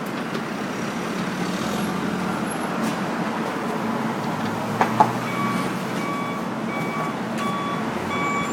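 Heavy work vehicle's engine running steadily. About halfway through its reversing alarm starts beeping at an even pace, and there is a single sharp knock around the same time.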